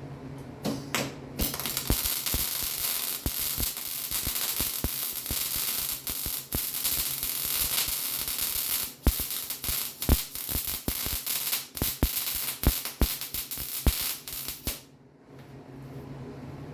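Arc welding: a steady crackling sizzle broken by many sharp pops, starting about a second and a half in and cutting off shortly before the end.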